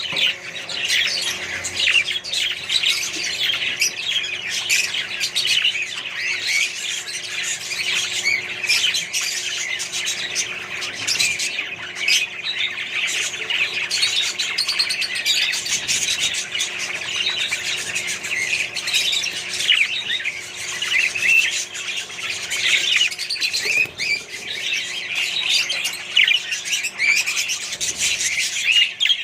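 A flock of budgerigars and other caged parrots chattering, chirping and squawking all at once in a dense, continuous babble.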